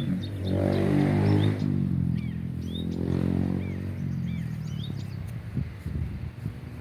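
A passing motor vehicle's engine swells twice and then fades away, the loudest sound here. Above it, small birds keep repeating short sweeping chirps, with a few sharp knocks near the end.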